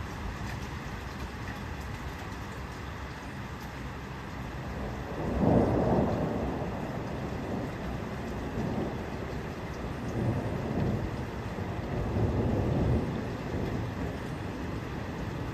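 Steady rain falling, with a rumble of thunder swelling up about five seconds in and fainter rumbles later on.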